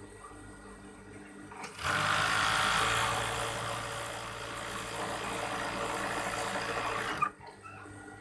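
Overdeck (coverstitch) sewing machine running steadily at speed for about five seconds, starting about two seconds in and stopping suddenly with a click.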